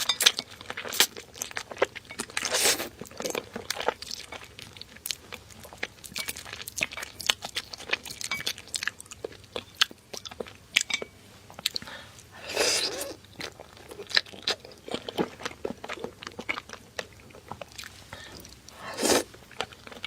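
Close-miked eating of seafood: chewing and crunching with many small sharp clicks, and three longer, louder mouth sounds about 3, 13 and 19 seconds in.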